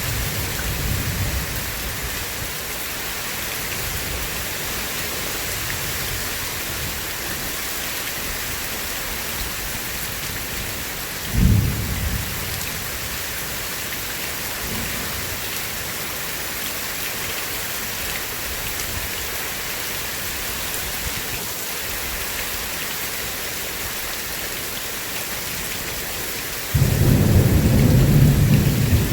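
Steady heavy rain with a thunderstorm: a short sharp thunderclap about eleven seconds in, and a louder rumble of thunder that starts near the end.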